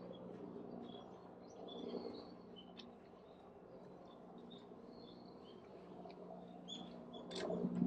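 Small birds chirping and calling repeatedly in short, varied notes, over a low background murmur that swells near the end.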